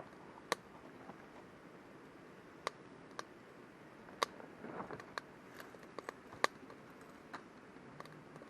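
Wood campfire crackling: sharp, irregular pops and snaps over a faint steady hiss.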